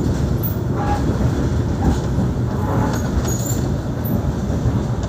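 Passenger train running on the rails, heard from inside the carriage: a steady low rumble with a few faint, brief high-pitched squeaks over it.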